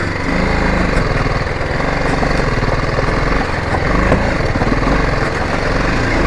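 Motorcycle engine running steadily at low speed while the bike rides over a bumpy stone-paved track.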